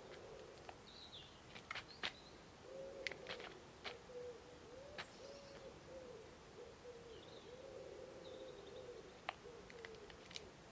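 A pigeon cooing: a run of low, rounded coos from about three seconds in to near the end. Scattered sharp taps and a few faint high chirps from small birds are heard alongside.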